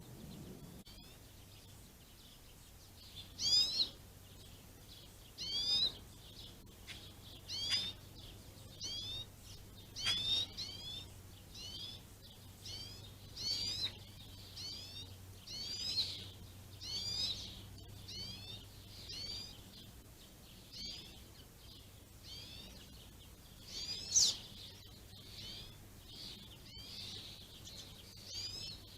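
Small songbirds chirping: a steady run of short, high, downward-slurred chirps about one every second or so, a few much louder than the rest.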